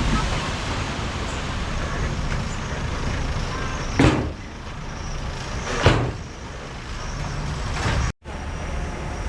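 Heavy diesel earthmoving machinery running steadily with a low rumble. Two loud sharp knocks come about four seconds in and again about two seconds later. The sound breaks off for a moment near the end.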